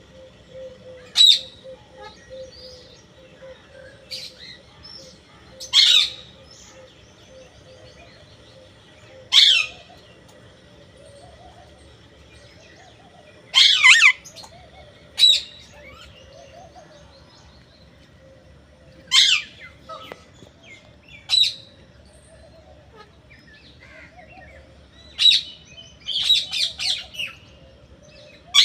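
A parrot giving short, sharp calls, one every few seconds, with a quicker run of several calls near the end.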